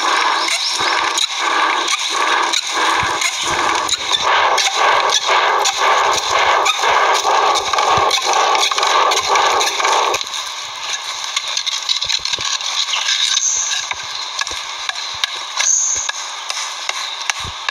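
Rhythmic scraping strokes, about two a second, which stop about ten seconds in and give way to a quieter rustle with scattered clicks.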